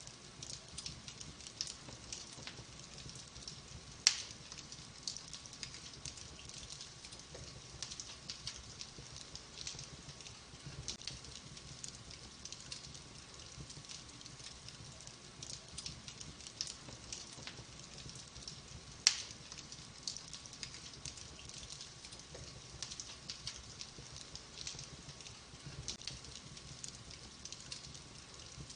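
Wood fire burning in a fireplace, with soft steady crackling and two sharp louder pops, one about four seconds in and one about nineteen seconds in.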